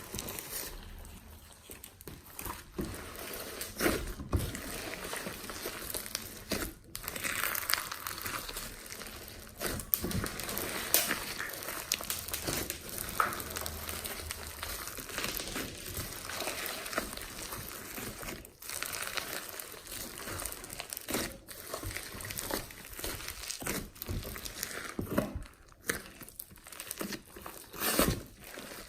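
Slime being squeezed, stretched and folded by hand: a continuous crackling, crinkling texture with many scattered sharp clicks and pops.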